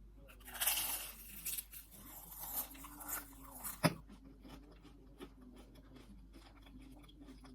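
Close-miked biting into a strawberry and chewing it. The loudest bite comes about half a second in, followed by wet chewing with a sharp click near four seconds.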